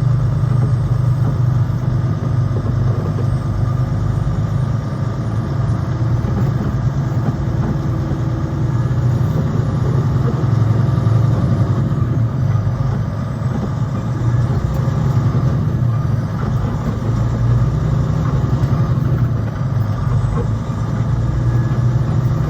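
Semi truck's diesel engine running steadily with a constant low drone.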